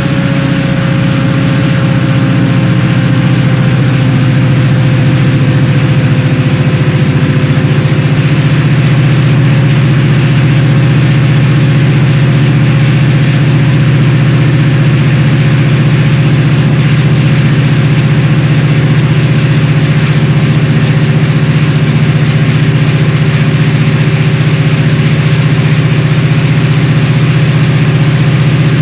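Unmuffled EMD 645E3C turbocharged two-stroke V16 diesel of a locomotive running steadily, with a deep, even drone and a steady higher whine that dips slightly in pitch in the first few seconds and then holds.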